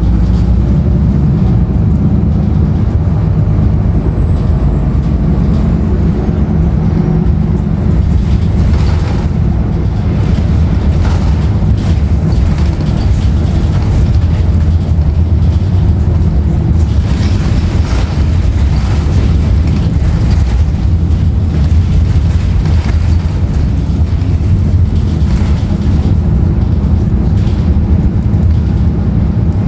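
Cabin noise of a 2016 Nova Bus LFS under way: a steady low drone from its Cummins ISL9 diesel and road rumble, with a few short rattles and knocks around the middle.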